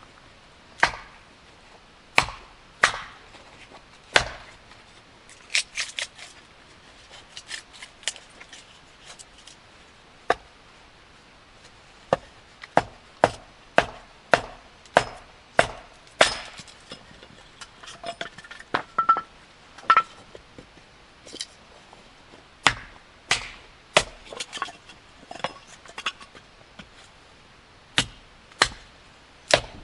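Wood being chopped with a blade, as when splitting firewood: sharp separate strikes at an uneven pace, roughly one a second, some coming in quick runs.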